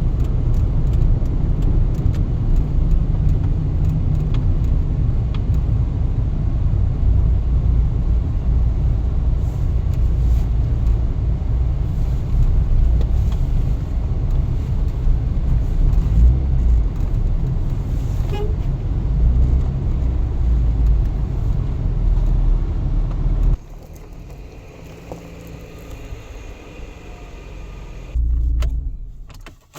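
Low, steady rumble of a motor vehicle that drops off sharply about three-quarters of the way through, with one short loud low surge near the end.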